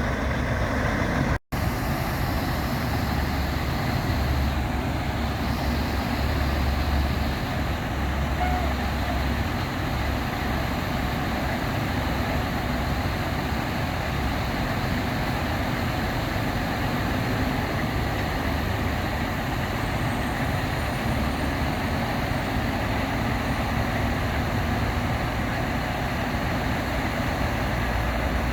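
Semi truck engine running amid steady road traffic noise, with a low rumble that rises and falls. It cuts out for an instant about a second and a half in.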